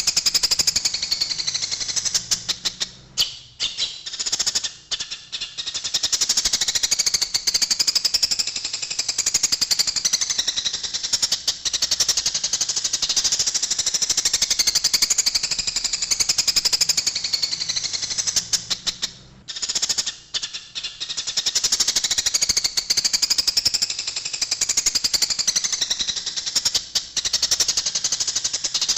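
Eurasian tree sparrows chattering in a fast, dense stream of harsh chirps: the agitated calls of sparrows fighting. The chatter thins out briefly about three seconds in and again near twenty seconds.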